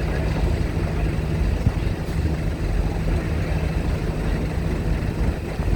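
Heavy vehicle or ship engines running at a steady low rumble.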